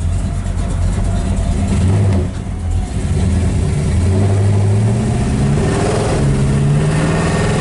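Dodge 426 Max Wedge V8 accelerating hard under load, its note climbing, falling back as the automatic shifts up about six seconds in, then climbing again.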